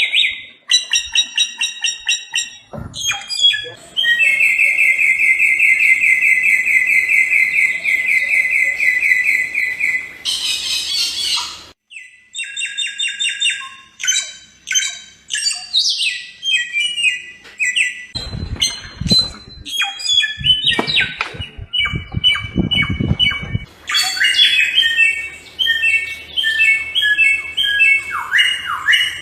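Samyong (garugiwa) bird singing a long run of loud, varied phrases: rapid trills, a long fast buzzy trill, and repeated clipped whistled notes. From about 18 to 23 seconds a low rumble lies under the song.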